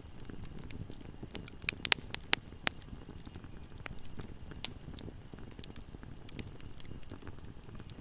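Campfire crackling: a steady low rumble of burning wood with scattered sharp pops, and a quick run of louder pops about two seconds in.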